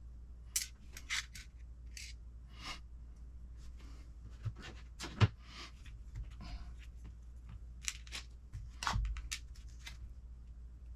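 Small parts and tools being handled on a workbench: irregular sharp clicks and short rustles, the loudest click about five seconds in, over a steady low hum.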